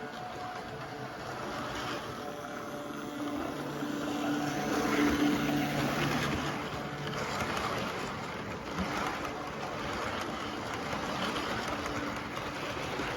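Class 67 diesel locomotive running with its train, a steady engine drone with a few held tones that grows louder about four to six seconds in and then eases.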